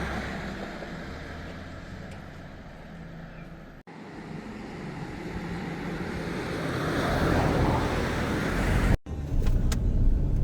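Road vehicles passing close by: a noise that swells and fades as each goes past. The sound breaks off abruptly twice, about four and nine seconds in, and a heavy low rumble follows in the last second.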